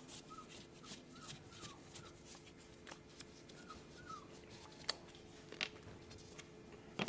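Light metallic clicks and taps from handling a car starter motor and its screws while it is taken apart, with a few sharper clicks in the second half. Faint short high chirps come and go in the first half.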